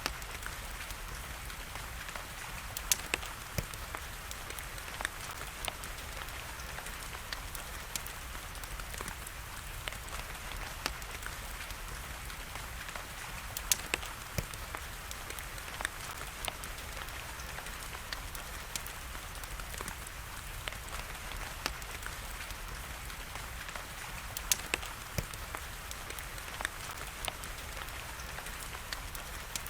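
Steady rain hiss together with a wood fire crackling: frequent small sharp pops, with a few much louder snaps scattered through.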